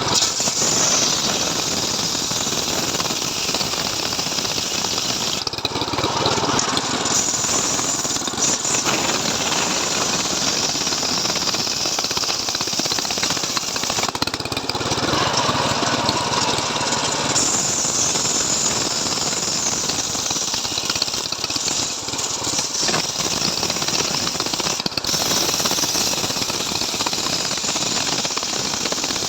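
Stihl MS 381 two-stroke chainsaw running under load in a homemade chainsaw-mill rig, ripping lengthwise through a log; its note changes briefly a few times as the cut goes on.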